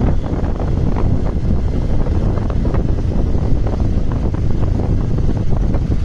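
Loud, steady wind buffeting on the microphone, with many short crackles mixed in.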